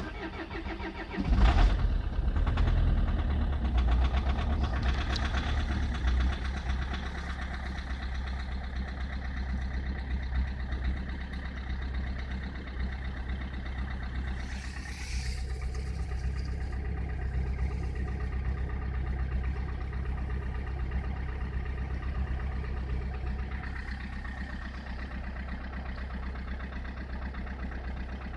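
Peugeot 307's 2.0 HDi four-cylinder turbodiesel started from cold: a short crank, then the engine catches with a loud burst about a second and a half in and settles into a steady cold idle that slowly grows quieter. A brief hiss comes about halfway through.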